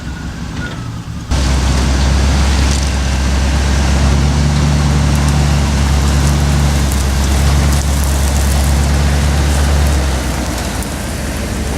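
Vehicle engine idling steadily, close by, with a low even hum; it cuts in abruptly about a second in and eases slightly near the end.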